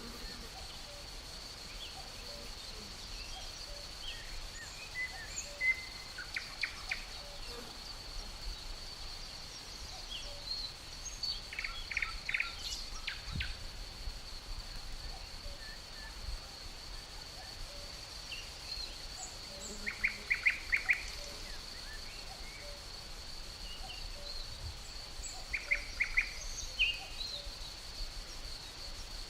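Forest ambience: crickets keep up a steady high-pitched trill, and songbirds break in with four short bursts of quick repeated chirps.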